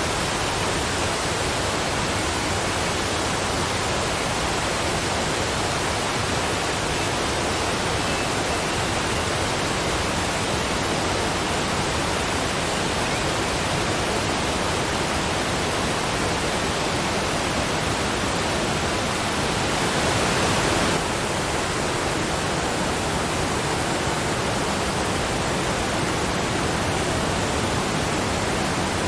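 Waterfall: a steady rush of falling water, swelling slightly louder for about a second roughly two-thirds of the way through.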